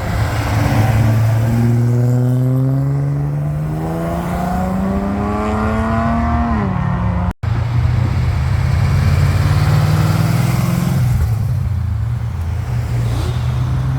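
A car engine accelerating, its pitch climbing steadily for about five seconds, then dropping sharply as the throttle is released. After an abrupt cut a little past seven seconds, an engine runs at a fairly steady pitch.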